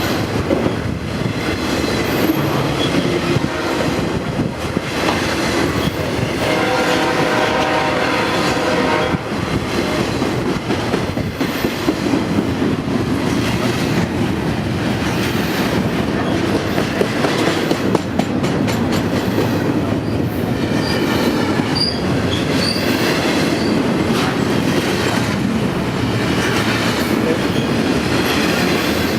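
A train rolling past close by: a steady, loud rumble and clatter of wheels on rail. A short, pitched sound rings out about seven seconds in.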